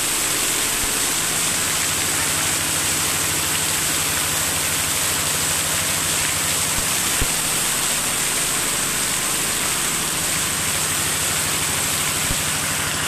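Heavy rain falling, a steady hiss, with a few sharp taps from drops striking something close by.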